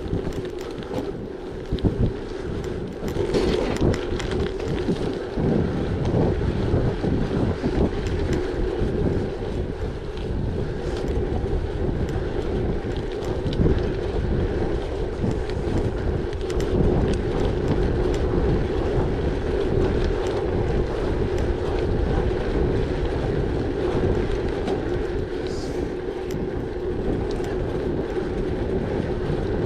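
Wind buffeting the microphone of a moving gravel bike, over a steady hum of the tyres rolling along.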